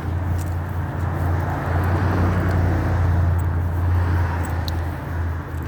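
Street traffic: a motor vehicle running close by, a steady low rumble with road noise that swells in the middle and eases off near the end.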